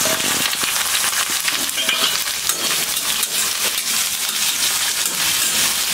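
Sliced onions and green chillies sizzling in hot mustard oil in a kadai as they are tipped in and stirred with a metal spatula: a steady frying hiss full of small pops.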